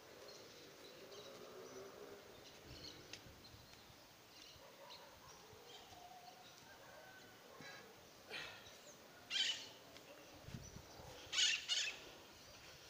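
Birds calling in the open air over a quiet background, with a few short, loud, high-pitched calls in the second half, two of them close together near the end.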